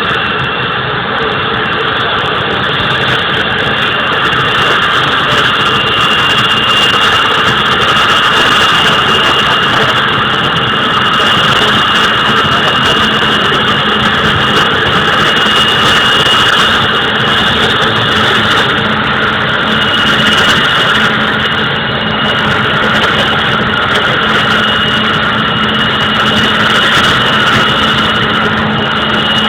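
Vickers Vanguard's Rolls-Royce Tyne turboprop engines running on the ground: a loud, steady high-pitched whine over a dense rumble.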